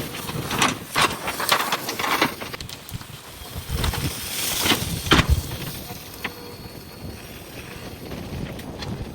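JCB backhoe loader at work, with irregular cracking and knocking for the first couple of seconds, then two heavy thumps about four and five seconds in, settling into a steadier, quieter working noise.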